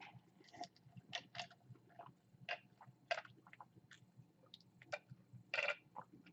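Close-up chewing of a chicken sandwich: soft, irregular wet smacks and clicks of the mouth, a few a second.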